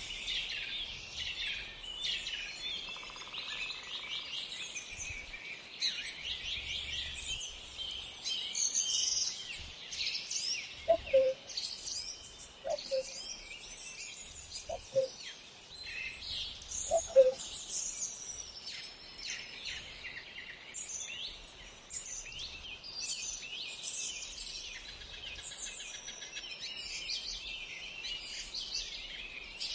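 Wild birds chirping and singing all at once, many quick high notes overlapping. Four short, louder, lower calls come about two seconds apart, beginning a little before the middle.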